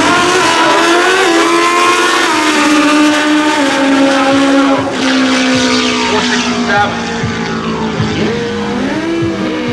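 Drag racing motorcycle engines running loud, more than one at once. Their pitch holds high, slowly drops, then rises again near the end.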